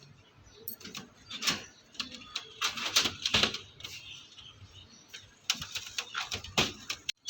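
Pigeons pecking at grain and shuffling about: a run of irregular sharp taps and clicks, busiest in the middle.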